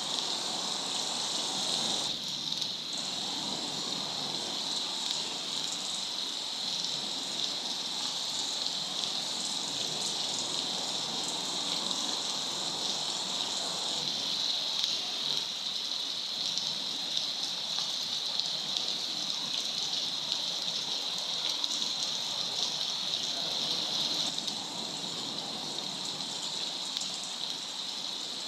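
Steady rush of falling water from a waterfall, an even hiss with a strong high edge, changing character abruptly a few times.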